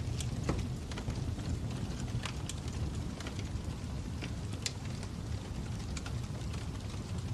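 Wood fire crackling: a steady low rush with scattered sharp pops and snaps at irregular moments.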